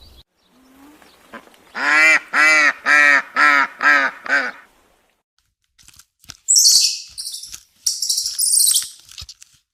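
Waterfowl honking, about six calls in quick succession, roughly two a second. After a pause comes a run of thin, very high-pitched chirping.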